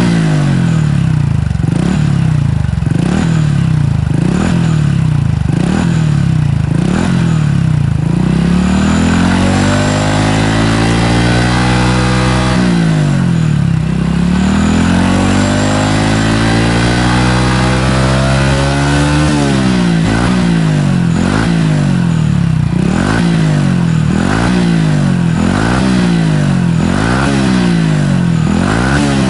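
Honda Super Cub 110's single-cylinder four-stroke engine through a BEAMS Power Classic Cabton full exhaust, revving. It starts with short throttle blips about every second and a half, has two longer revs that climb and fall back around the middle, then returns to quicker blips about once a second.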